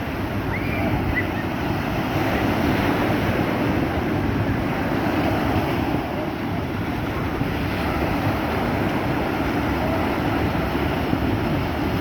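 Sea surf washing on the shore in a steady rush, with wind rumbling on the microphone.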